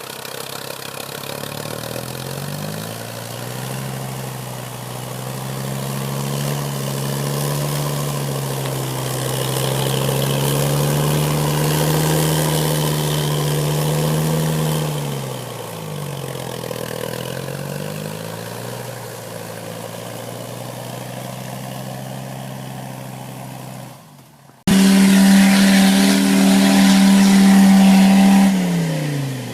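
UAZ off-roader's Mercedes OM617 3.0-litre five-cylinder diesel running under load: the engine note climbs a few seconds in, holds high for about ten seconds, then falls back to a steady lower speed. After an abrupt break near the end, a louder steady engine note runs briefly and then drops away.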